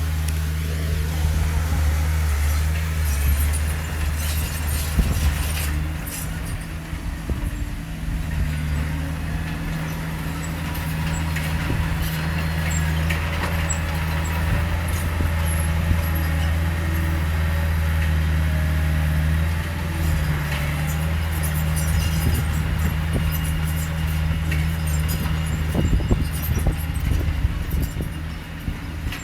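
Heavy diesel engine of earthmoving machinery running steadily under load, a deep drone that dips briefly a couple of times, with a few clanks and rattles.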